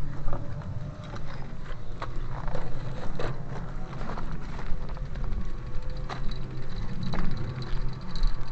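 A vehicle on the move over rough ground: a steady low rumble with frequent knocks and rattles.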